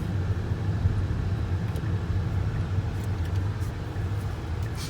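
Steady low engine and road rumble heard from inside a car's cabin while driving, with a few faint ticks.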